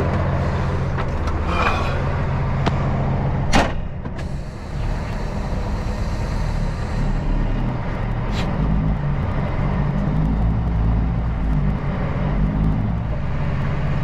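Kenworth C500 truck's diesel engine running as it drives off, a steady low drone that shifts in pitch, with a sharp click about three and a half seconds in and another around eight seconds in.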